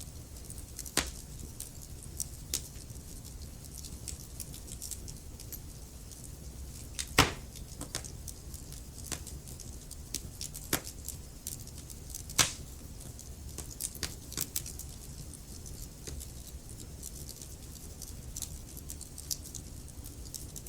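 Wood fire burning in a fireplace: irregular crackles and pops over a low, steady rumble. A few pops are sharper and louder, the loudest about seven and twelve seconds in.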